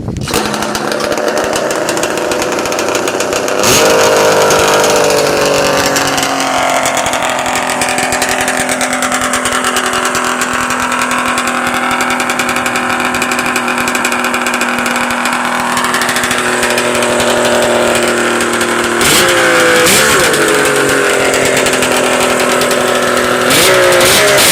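1971 Ski-Doo Blizzard 797 snowmobile's two-stroke engine idling. The throttle is blipped briefly about four seconds in, after which the idle slowly settles back down, and it is blipped twice more near the end.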